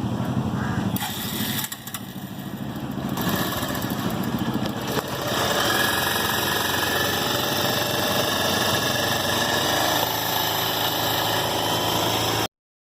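Bajaj Pulsar 150's single-cylinder DTSI engine running, growing louder from about five seconds in; the sound stops abruptly near the end.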